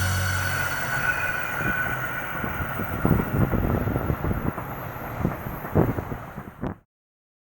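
Train running on rails, with irregular clattering knocks from the wheels over a steady rumble; the last of the background music fades out in the first second. The sound cuts off suddenly near the end.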